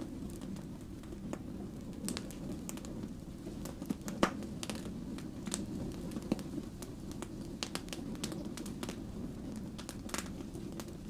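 Firewood burning, crackling with irregular sharp pops over a steady low rush of flame, the loudest pops about four seconds in and near the end.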